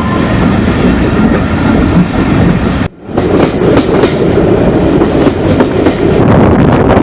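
Steam-hauled passenger train running along the line, a loud steady rumble with wheels clicking over the rail joints. The sound cuts out abruptly for a moment about three seconds in, then carries on.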